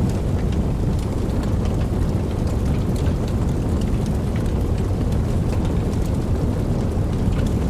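Steady rain falling, with scattered drop ticks over a continuous deep low rumble.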